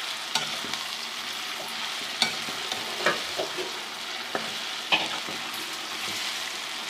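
Chana dal and boiled purslane being stir-fried in oil and spices: a steady sizzle, with the spoon clinking and scraping against the pot several times.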